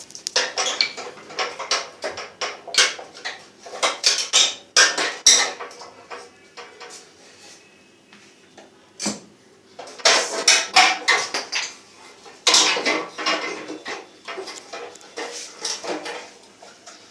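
Metal tools and parts of a gas water heater clinking, knocking and scraping as it is dismantled to get its coil out, in two busy spells with a quieter pause in the middle.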